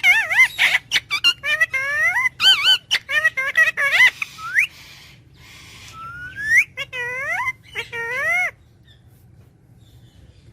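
Parrot chattering in a rapid string of squeaky, whistled calls that swoop up and down in pitch, with sharp clicks between them. It stops abruptly about eight and a half seconds in.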